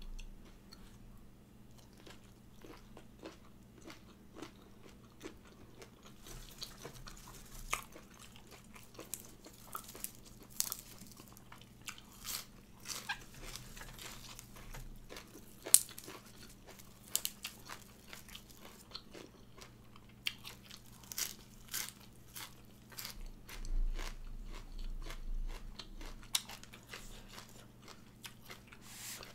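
A person eating with mouth close to the microphone, biting and chewing crisp fresh greens and raw shrimp salad, with sharp, wet crunches. The crunching grows frequent about six seconds in.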